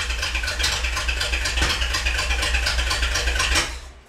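1950 Dodge Wayfarer's freshly rebuilt flathead six idling with an even, steady beat on its first run after the rebuild. About three and a half seconds in it cuts out and dies away within half a second, as if switched off.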